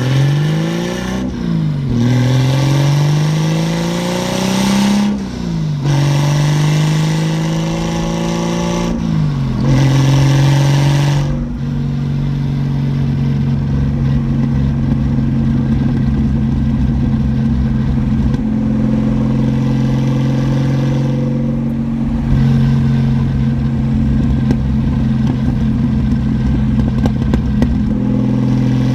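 Toyota Mk3 Supra's turbocharged 7M-GTE inline-six accelerating through the gears of its manual gearbox: the engine note rises and drops back at each of three upshifts in the first ten seconds or so. After that it runs steadily at a constant cruising speed.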